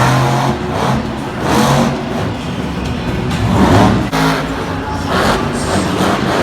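Monster truck engine revving hard in repeated surges, rising and falling every second or so.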